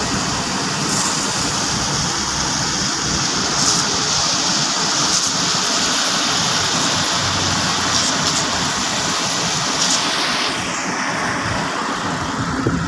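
Car driving on a wet road in light rain: steady road and engine noise under a loud hiss of tyres on water. The hiss drops away about ten and a half seconds in.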